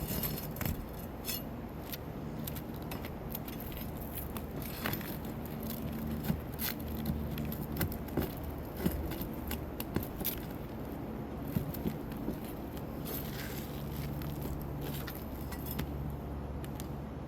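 Metal tool clinking and scraping against roofing nails and a shingle as nails are pried out from under a lifted shingle: many scattered sharp clicks and clinks, over a low steady hum.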